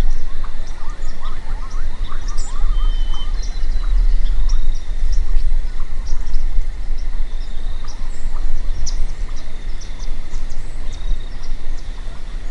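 Small birds chirping and calling in short scattered notes, over a steady low rumble.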